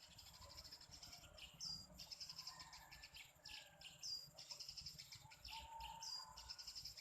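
Birds chirping faintly, with three short high calls about two seconds apart over a steady insect hum.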